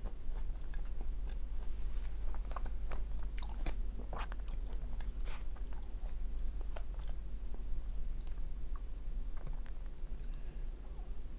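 A person chewing McDonald's french fries: soft, irregular crunches and mouth clicks, over a steady low electrical hum.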